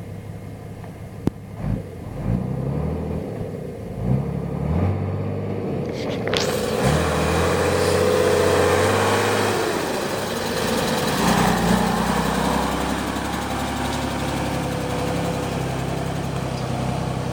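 1988 Unimog SEE's diesel engine running, with a few knocks in the first couple of seconds. About six seconds in, a louder hiss joins, and the engine speed rises and falls briefly before settling back to a steady run.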